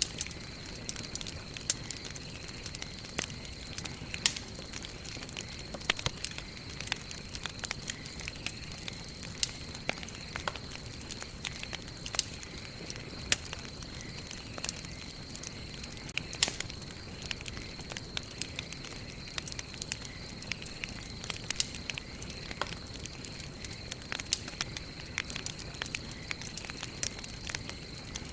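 Campfire of burning wood crackling, with irregular small snaps and an occasional louder pop over a steady soft hiss. A thin, steady high-pitched tone sits underneath.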